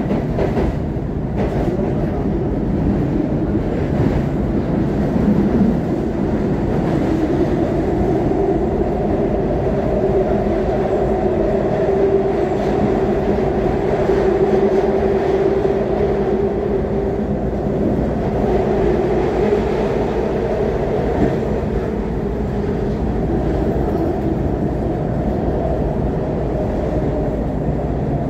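SEPTA Market-Frankford Line train heard from inside the car while running on the elevated track: a steady rumble of wheels on rail with a faint hum.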